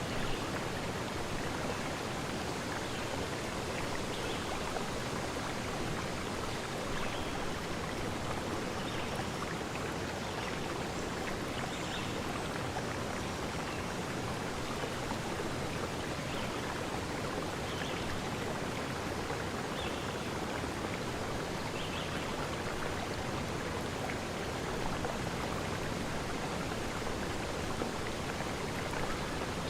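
Clear forest stream flowing steadily.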